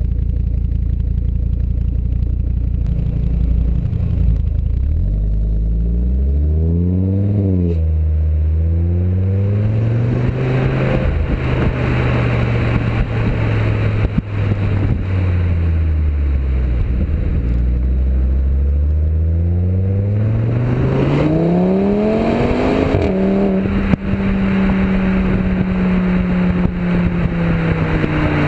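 Audi TT RS turbocharged five-cylinder engine through a decatted Milltek sports exhaust, accelerating with revs climbing and dropping sharply at gear changes several times. Near the end it holds steadier, slowly falling revs.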